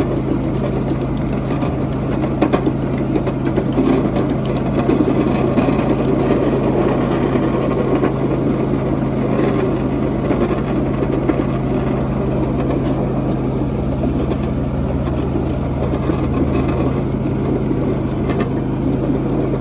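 Miniature ride-on train running along its track: a steady engine drone with an even rumble and no change in pace.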